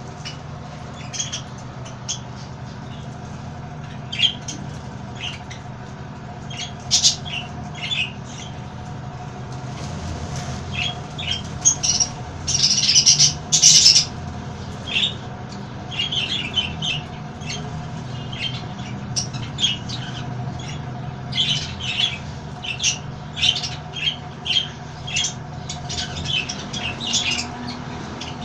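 Parrots squawking in many short, sharp calls, with a loud cluster about halfway through, over a steady low hum.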